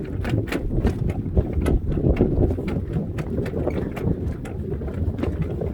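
Footsteps of a person walking at a steady pace, about two to three steps a second, over a low rumble of wind on the microphone.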